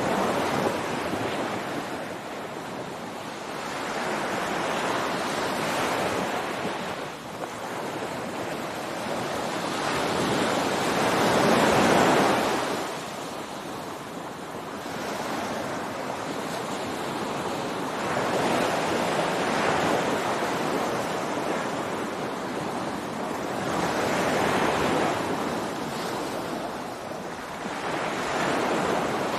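Ocean surf on a beach: waves breaking and washing in, the rushing swelling and fading every several seconds, loudest about twelve seconds in.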